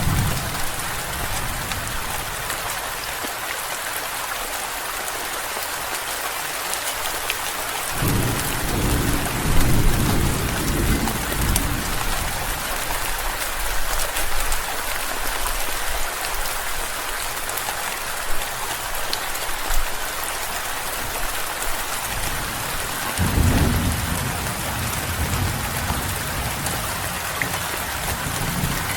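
Steady rain with thunder rumbling twice: low rolls that swell about eight seconds in and again about twenty-three seconds in, each lasting several seconds.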